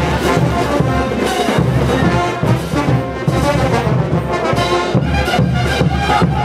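Brass band playing diablada music, trumpets and trombones over a low bass line, with drums and cymbals keeping a steady beat.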